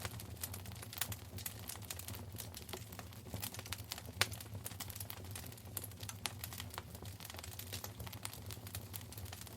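Wood fire crackling in a fireplace: a dense run of irregular sharp pops and snaps, one louder snap about four seconds in, over a steady low hum.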